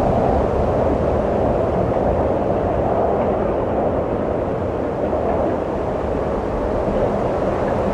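Steady gusting wind, a continuous rushing noise that swells and eases slightly, dipping a little about halfway through.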